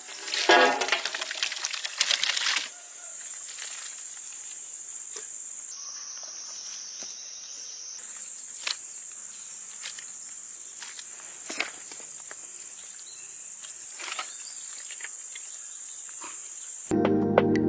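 Insects chirring steadily in a high pitch, their tone dipping lower for a couple of seconds midway. A loud noisy burst in the first two seconds and a few sharp clicks break in, and music starts just before the end.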